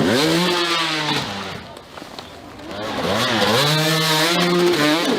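Enduro dirt bike engine revving hard, its pitch shooting up at the start and holding, then dropping away about two seconds in before climbing again a second later and holding until near the end.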